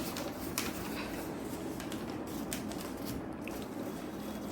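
A sheet of paper rustling and crackling as it is folded and creased by hand, with several short crisp crackles over a steady low background hum.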